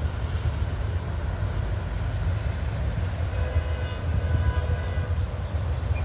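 Low, steady rumble of heavy road traffic going by, with a faint horn tone held for about two seconds midway through.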